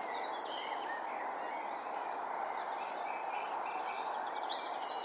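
Small birds singing outdoors: many short, high chirps and warbles, busier in the second half, over a steady background hiss.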